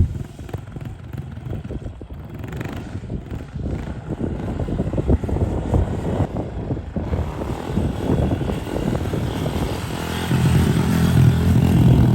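110cc pit bike engine running steadily while held in a wheelie in second gear, louder near the end.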